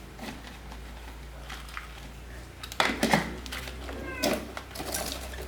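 A few sharp clicks and knocks, clustered about three seconds in and again near the end, over a steady low hum, with a brief high falling call about four seconds in.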